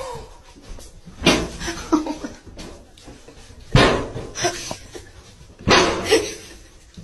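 Animal calls: three loud, sudden calls about two seconds apart, each followed by a softer call.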